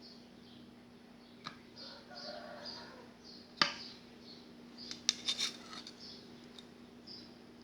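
A few sharp metallic clicks and clinks, the loudest about halfway through and a quick cluster near the end, over a faint steady hum. A bird chirps repeatedly in the background.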